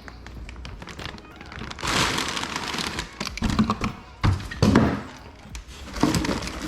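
Parts and packaging being handled during an unboxing: rustling of packing material with several thuds and knocks as parts are moved about.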